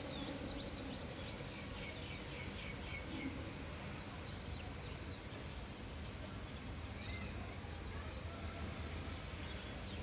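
Small birds chirping in short, rapid high-pitched bursts every couple of seconds, over a steady low background noise of open outdoor air.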